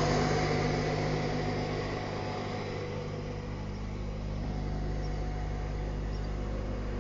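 2004 Acura RSX's four-cylinder K-series engine idling steadily while it warms up, heard with the hood open.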